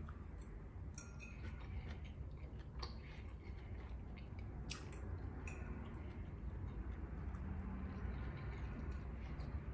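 Close-miked chewing of a mouthful of pasta, with a few sharp clicks of a metal fork against a ceramic bowl, over a low steady hum.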